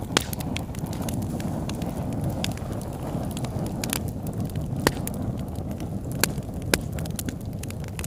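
Campfire crackling: irregular sharp pops and snaps over a steady low rush of flames.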